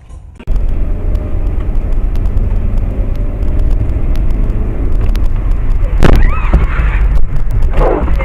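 Car heard from inside through a dashcam: a loud, steady low rumble of engine and road noise, with sharp knocks and a short high-pitched squeal about six seconds in and another loud jolt near the end.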